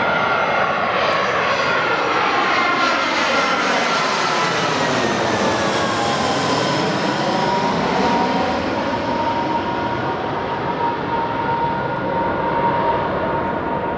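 Airliner passing low overhead on its landing approach, its engine whine gliding down in pitch as it goes by, then settling to a steady lower whine over the engine noise.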